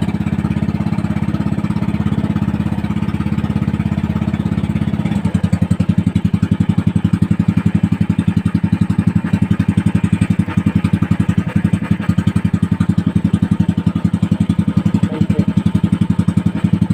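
Small fishing boat's (bangka) engine running steadily. About five seconds in, its beat turns louder and more sharply pulsed, holding as a quick, even thudding.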